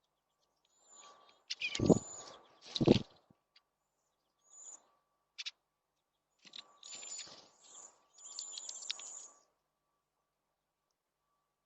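Small birds chirping at a feeder in two clusters of high calls, with two loud low thumps about two and three seconds in.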